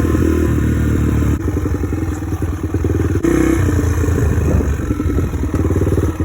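Dirt bike engine running under way, its note rising and falling as the throttle is worked.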